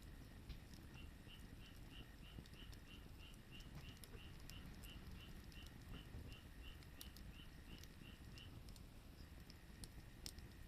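Faint wood fire with sparse crackling pops, under a bird repeating a short high note about three times a second; the notes stop after about eight seconds.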